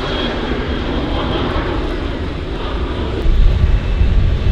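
Jet airliner engines running with a steady roar; about three seconds in, a louder, ragged low rumble comes in.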